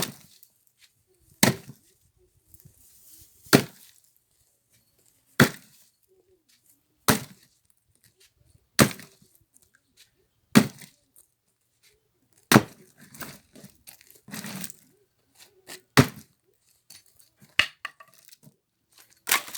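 An axe splitting firewood logs: about eleven sharp chopping blows, roughly one every two seconds. Between two of the blows, about two-thirds of the way through, there are a few seconds of scraping and rustling.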